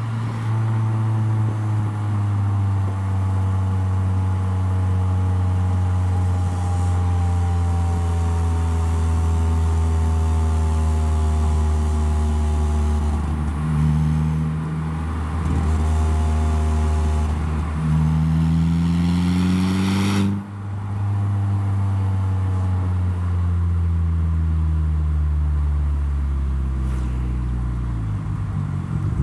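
Saab 9-3 engine running through a hand-made stainless steel exhaust while driving, a deep steady drone. The pitch slowly falls, climbs again for several seconds past the middle, breaks off abruptly about two-thirds of the way through, then falls slowly again.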